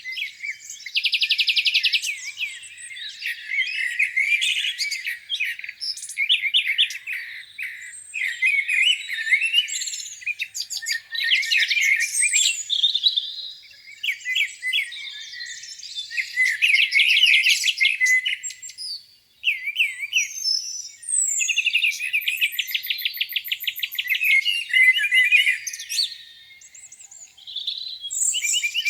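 Several songbirds singing at once in a spring chorus: overlapping chirps and warbled phrases, with fast buzzy trills about a second in and again around three quarters of the way through. There is no low sound at all under the birdsong.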